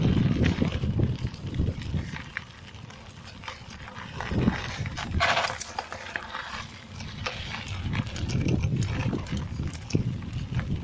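Mountain bike riding over a dirt and gravel trail, heard from a bike-mounted action camera: a rumbling flutter of wind and tyre noise with many sharp rattling clicks from the bike and stones. It quietens for a couple of seconds early on, and there is a brief hiss about five seconds in.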